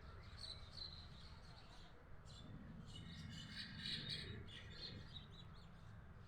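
A flock of small birds chirping, faint, with clusters of quick high chirps about a second in and again around three to four seconds in, over a low steady hum.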